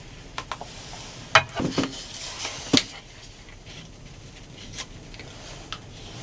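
Scattered clicks and knocks of small objects being handled and set down, the two loudest about a second and a half and nearly three seconds in.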